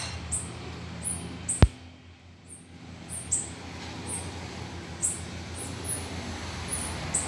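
Small birds giving short, very high-pitched chirps, scattered through. A single sharp click about a second and a half in is the loudest sound.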